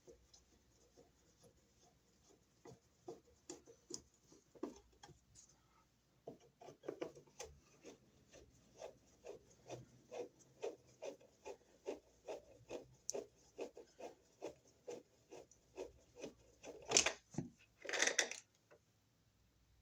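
Screwdriver backing out the screws of a wall outlet's cover plate and mounting strap, a short click or scrape with each turn about twice a second. Two louder scrapes near the end as the outlet comes away from the box.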